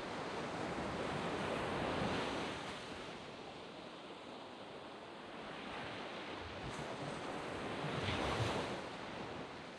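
Waves breaking and washing up a sandy beach, with a steady wash of surf that swells twice: once about two seconds in and again near the end.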